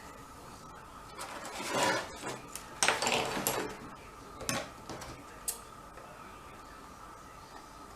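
Thick card being handled and folded: two stretches of rustling and sliding, then a couple of light taps or clicks.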